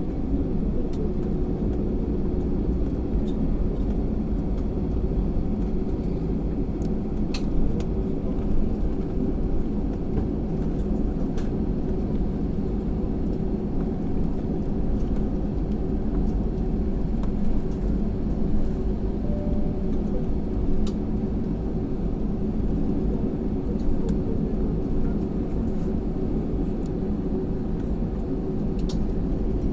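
Tractor engine running steadily at an even speed, with a few faint clicks over it.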